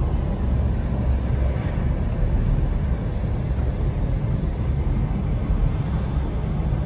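Steady low rumble and noise of a moving train heard from inside a passenger carriage: wheels running on the track.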